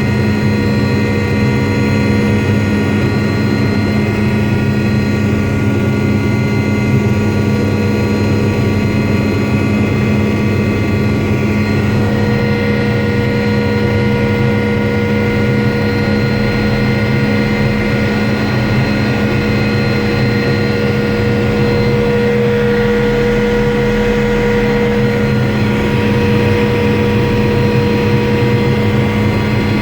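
Helicopter engine and rotor running in flight: a loud, steady drone made of several fixed tones over a low rumble.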